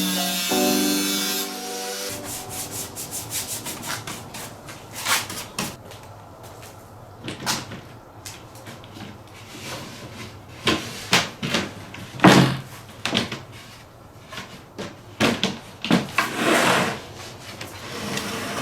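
Background music that stops about a second and a half in, then irregular rough scraping strokes, some much louder than others, as of hand work rubbing on a surface.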